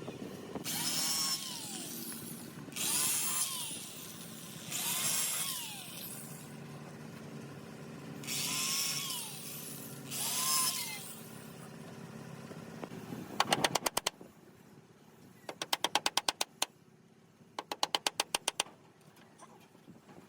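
Woodworking power tool cutting wood in five short passes, each about a second long with a rising then falling pitch. Near the end come three short bursts of rapid clicking, about ten clicks a second.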